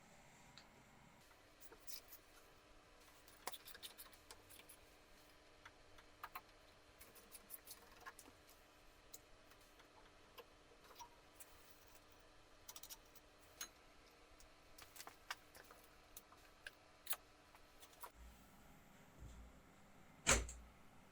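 Faint, scattered small clicks and taps, like parts and tools being handled, with one louder knock about twenty seconds in.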